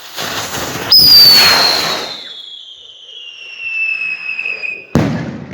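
Whistling firework going off: a hiss, then about a second in a loud whistle that slowly falls in pitch for about four seconds, cut off by a sharp bang near the end.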